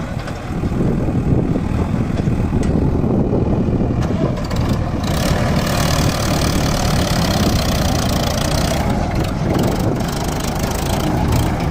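Tractor diesel engine running with a steady low throb; a rushing noise grows louder about five seconds in.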